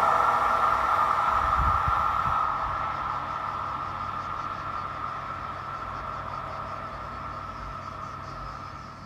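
A train on the railway, its running sound fading steadily as it moves away, with a steady high ringing tone over the rumble of wheels on rail.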